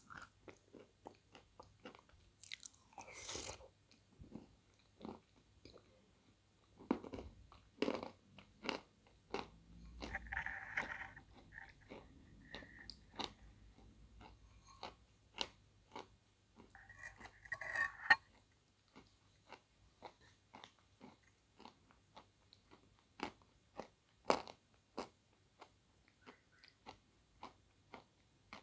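Close-up chewing of a soup of soaked edible clay ('песчанка') eaten by the spoonful: a steady run of wet mouth clicks and chewing, with a few longer slurping stretches and a few sharp clicks.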